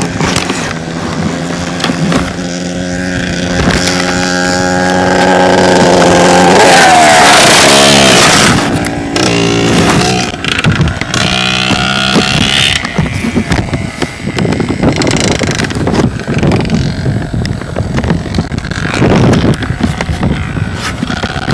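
Dirt bike engine running, steady for the first few seconds, then revving up to its loudest about seven seconds in, after which the engine note rises and falls unevenly as the bike is ridden.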